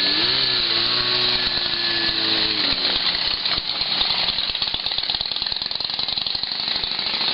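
Motorcycle engines running with a loud, rapid rattling pulse, and a held tone over them for the first couple of seconds.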